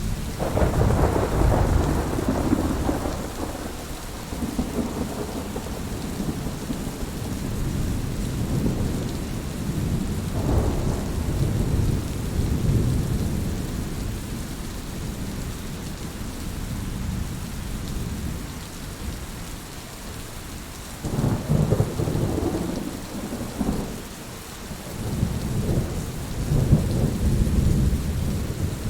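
Heavy rain falling in a steady hiss, with rolling thunder rumbling over it: a long rumble just after the start, another around ten seconds in, and two more in the last third.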